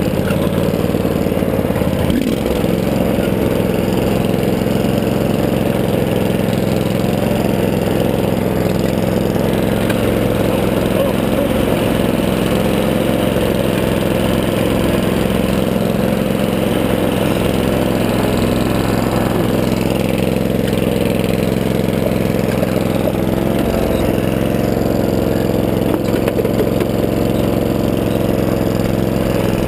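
Riding lawn tractor's small engine running steadily, heard from on board while it is driven.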